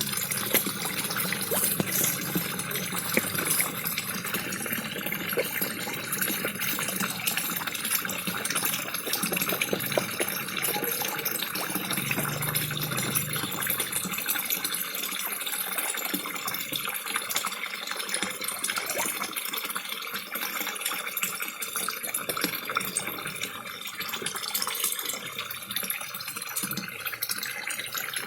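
A small waterfall splashing steadily into a koi pond, mixed with many quick little clicks and slurps from koi feeding at the surface.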